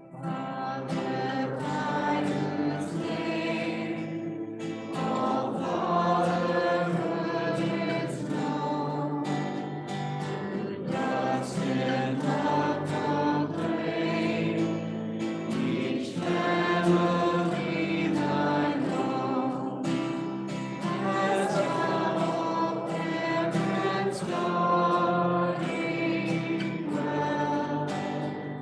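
Congregation singing a hymn together.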